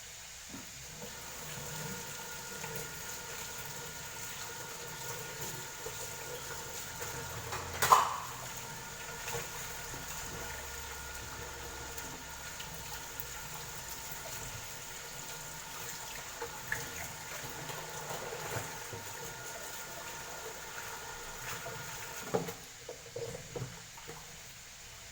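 Water running steadily from a tap for about twenty seconds, then shut off. A sharp knock comes about eight seconds in, and a few clatters follow the shut-off.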